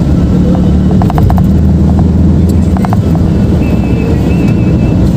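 Motorcycle riding at highway speed: a loud, steady low rumble of wind on the microphone over the engine's drone, with a few short clicks about a second in and near three seconds.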